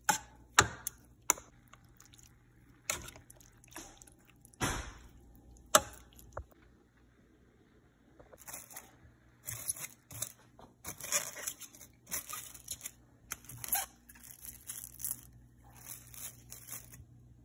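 Kitchen handling sounds: a handful of sharp clicks and knocks, then from about halfway through a stretch of crinkling and tearing packaging, such as covering or sealing the marinating chicken.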